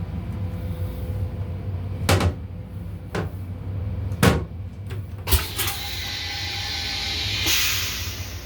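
Inside an M7 railcar's restroom: a steady low rumble from the car, broken by three sharp knocks, then a hiss that builds from about halfway through and peaks near the end.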